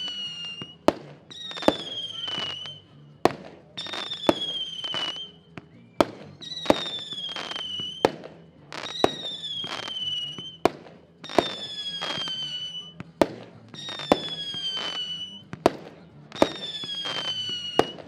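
Xplode Relax firework battery firing. A shot goes off about every two and a half seconds. Each shot is a sharp bang followed by a whistle that lasts about a second and a half and falls slightly in pitch, with further sharp cracks in between.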